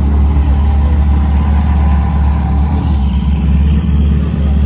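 A car engine running close by: a loud, deep, steady rumble with rapid even firing pulses.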